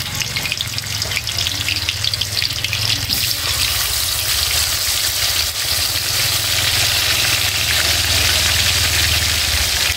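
Marinated pieces of rat meat sizzling steadily in hot oil in a wok.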